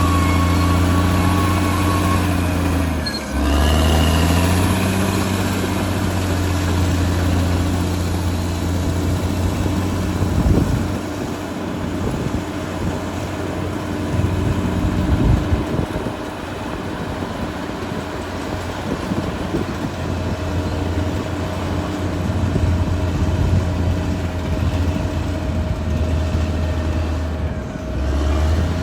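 Caterpillar D6R XL bulldozer's diesel engine running steadily under load. Its pitch dips and recovers about three seconds in and again near the end, and irregular knocks and clanks come through in the middle.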